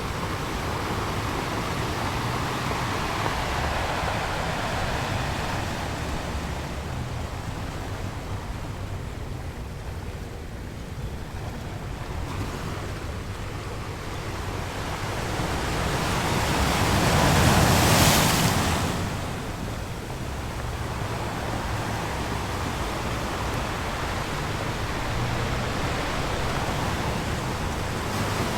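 Ocean waves breaking on a shore, a steady wash of surf that swells and ebbs; one bigger wave builds and crashes about two-thirds of the way through, then falls back to the steady wash.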